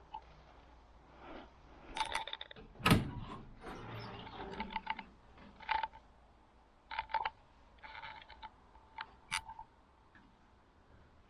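Irregular mechanical clicks and rattles, with one loud knock about three seconds in.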